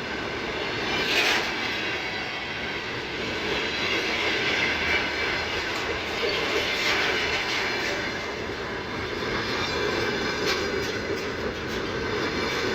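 Freight train running past on the track: a steady rumble and rattle of wagon wheels on the rails, with faint high ringing tones above it.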